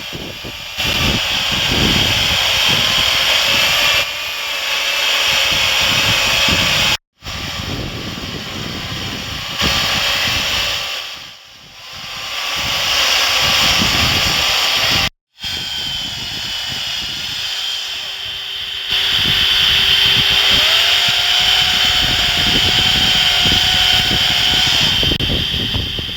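Chainsaw running and carving into wood, its engine note rising and falling with the throttle. It cuts off abruptly twice where separate stretches have been joined.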